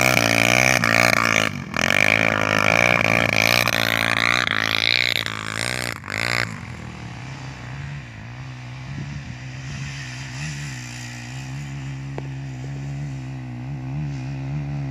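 Trail motorcycle engine revving hard with its pitch rising and falling, then about six and a half seconds in dropping to a steady idle.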